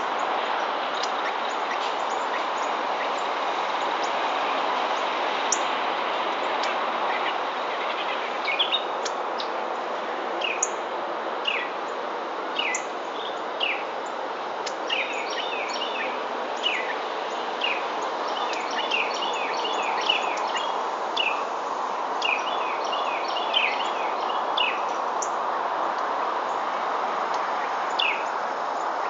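Wild birds chirping, with many short, quick falling notes, thicker in the second half, over a steady outdoor background hiss.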